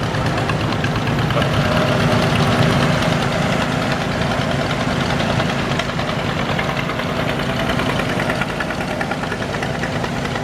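Farm tractor engines running at low speed as the tractors roll past, a steady pulsing chug that swells slightly about two seconds in.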